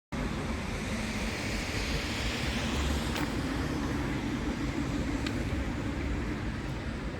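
Steady road-traffic noise: a low rumble with a hiss of passing vehicles, cutting in abruptly at the start, with a couple of faint clicks along the way.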